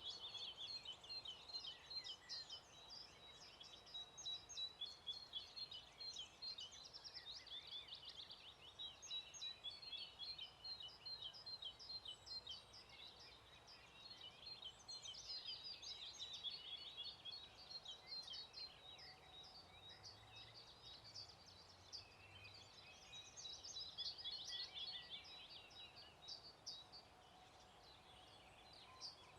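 Faint songbird chorus at sunrise: many quick high chirps and trills from several birds at once, swelling and easing in waves, loudest in the first twelve seconds and again around the middle and two-thirds of the way through.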